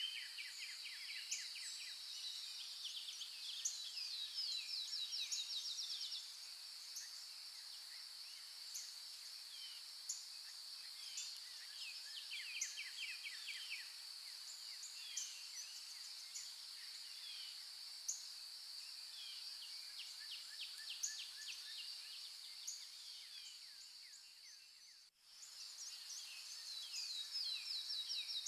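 A steady high-pitched drone of insects, with rapid chirping trills and short high chirps over it. The whole sound cuts out for a moment near the end and comes back.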